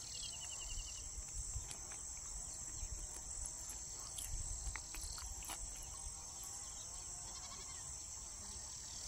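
Steady high-pitched insect chorus, with a brief pulsed trill near the start and a few faint scattered chirps.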